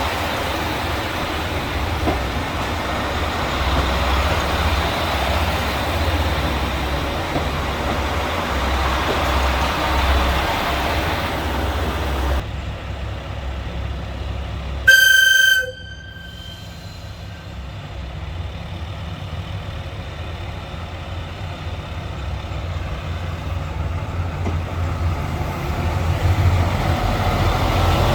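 KiHa 281 series diesel railcar running with a steady rumble. About twelve seconds in the noise drops off sharply, a short high horn toot sounds about fifteen seconds in, and a low diesel engine rumble then builds toward the end.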